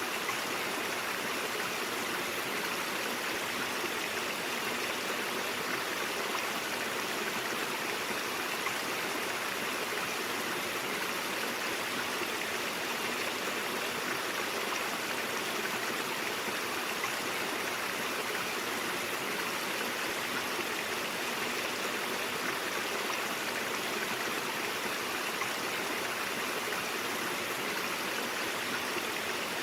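Mountain stream water flowing and babbling steadily over rocks.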